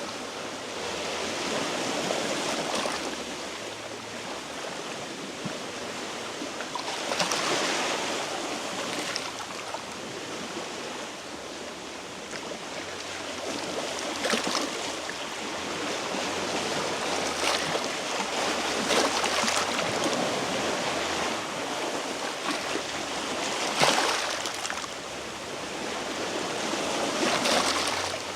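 Small sea waves washing against shore rocks, swelling and draining away every few seconds, with a sharper splash near the end.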